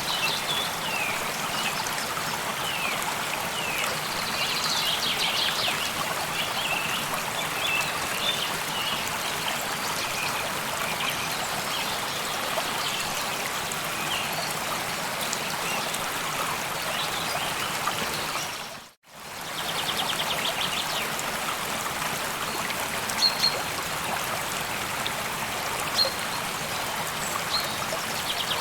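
Stream water trickling steadily, with small birds chirping and trilling over it. The sound drops out briefly about two-thirds of the way through, then the water and birdsong carry on.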